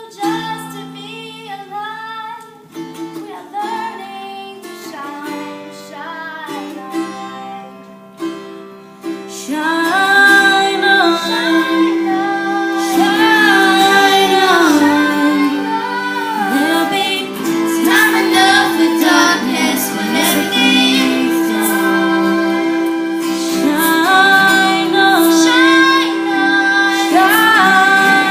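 Young female singers singing a song to a guitar accompaniment. It is quieter at first and gets louder about ten seconds in, with long held notes.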